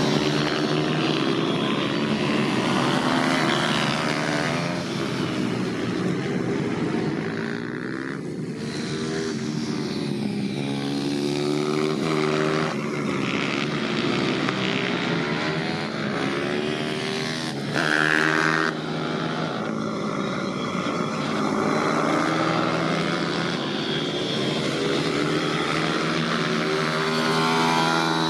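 Pit bike engine running on a track, its pitch rising and falling over and over as the throttle opens and closes.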